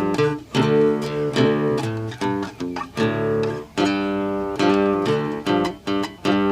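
Guitar playing a bluesy tune, chords struck every second or so and left to ring between strokes.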